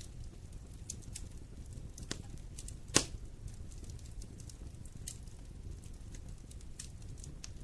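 Wood fire burning in a fireplace: a low steady rumble of flames with scattered sharp crackles and pops, the loudest a single pop about three seconds in.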